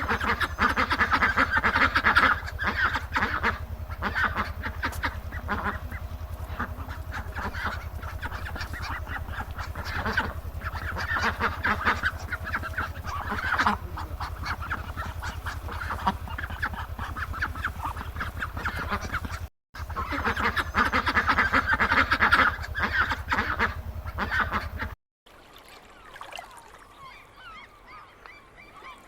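A flock of waterfowl calling, many short calls overlapping densely over a low steady hum. The sound cuts out briefly about two-thirds of the way through, resumes, then drops to something much quieter for the last few seconds.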